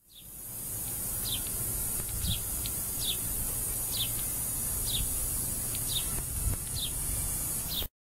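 A small bird repeats a short, falling chirp about once a second over a steady high hiss and a low outdoor rumble. The sound fades in at the start and cuts off abruptly near the end.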